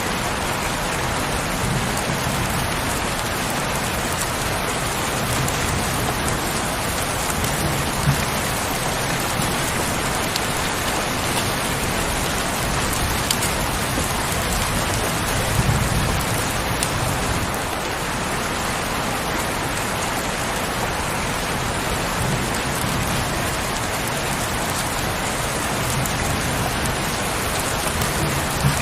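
Steady heavy rain, a dense even hiss, with a few sharper drop ticks and faint low rumbles every few seconds.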